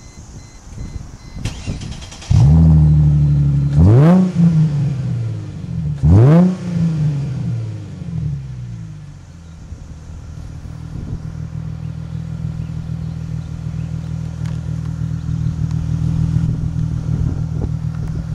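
Chrysler Crossfire's 3.2-litre V6 through an aftermarket dual muffler with burnt tips: the engine catches about two seconds in and is blipped sharply twice, each rev rising and falling quickly. It then settles into a steady idle.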